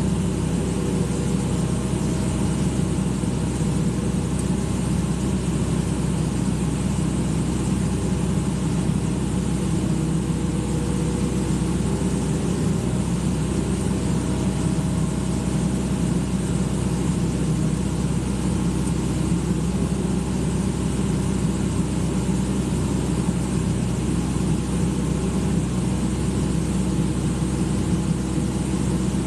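Excavator's diesel engine running steadily at an even pace, with no revving or change in load.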